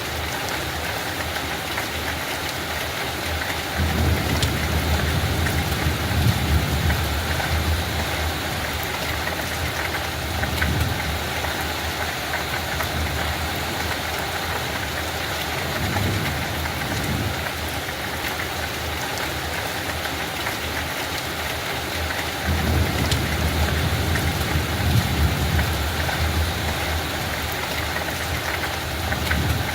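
Light rain falling on a field, a steady even hiss. A low rumble swells in twice, about four seconds in and again about twenty-two seconds in, each lasting several seconds.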